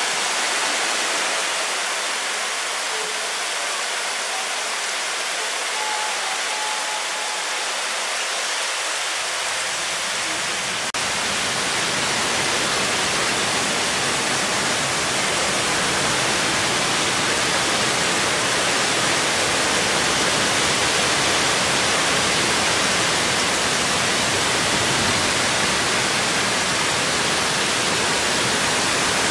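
Heavy sudden downpour pouring onto pavement, a steady hiss that becomes louder and deeper from about eleven seconds in.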